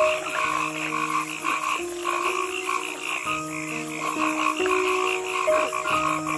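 Frog croaking in a long, continuous run of rapid pulses.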